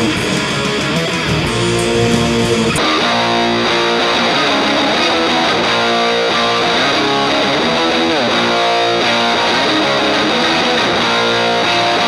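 Distorted electric guitar playing grunge riffs in a dense, steady stream. About three seconds in the sound changes and the highest treble drops away.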